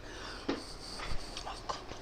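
A few soft clicks and knocks of things being handled and set down, over faint steady room hiss.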